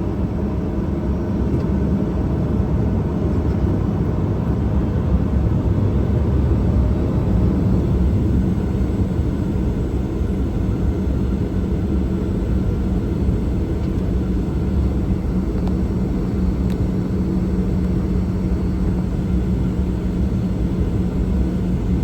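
Boeing 737-800 cabin noise: the steady rumble of its CFM56 engines and the airframe, heard from inside the passenger cabin. A steady low hum within it grows stronger about a third of the way in.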